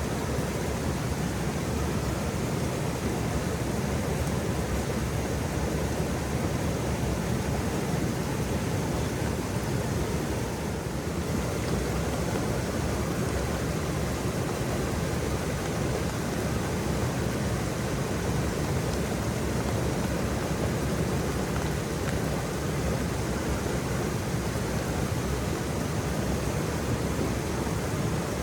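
Waterfall: a steady, continuous rush of falling water, deepest in the low end.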